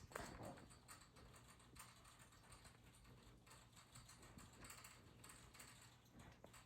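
Near silence with faint, irregular light ticks and clicks.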